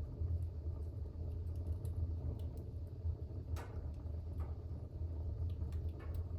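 Fire burning in a fireplace: a steady low rumble of the flames with scattered faint crackles, and one sharper pop about three and a half seconds in.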